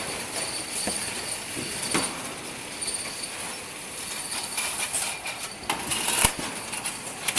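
Automatic oil-bottle filling line running: a steady mechanical hiss with a faint high whine, broken by occasional clicks and knocks, the loudest about six seconds in.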